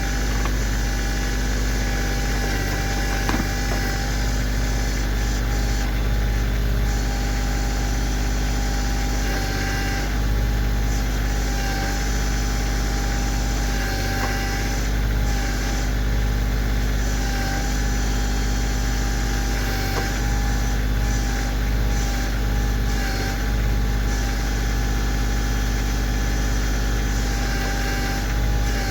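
Kioti CK2610 compact tractor's three-cylinder diesel engine running steadily at an even speed, with a couple of faint knocks.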